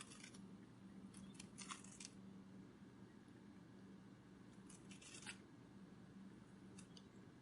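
Faint, brief papery flutters in short clusters at the start, between one and two seconds in, around five seconds and near seven seconds, over a low steady hum: a butterfly wing-flutter sound effect.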